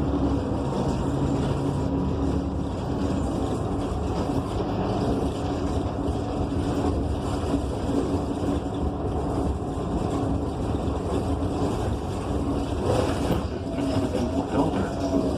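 Inside a 2015 Gillig BRT Plus city bus under way, with its Cummins Westport ISL G natural-gas engine running under a steady rumble of road noise and a steady low hum. A higher whine wavers up and down near the end.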